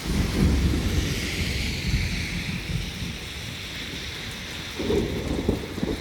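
Thunder rumbling, starting suddenly and loudest in the first second or two, then easing off before a second swell about five seconds in, over the steady hiss of rain.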